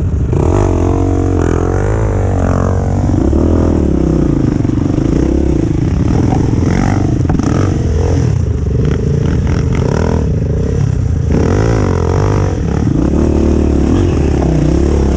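Off-road motorcycle engine revving up and down over and over, its pitch rising and falling in uneven swells.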